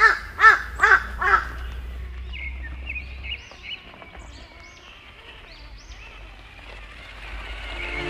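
Bird calls: four loud, harsh caws in quick succession, then fainter, higher chirps from smaller birds.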